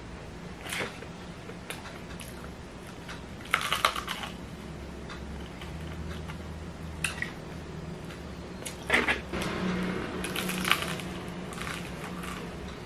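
Close-up crunching and chewing of crispy fried chicken: several bursts of crackly bites spread through, with the loudest near the middle and near the end, over a steady low hum.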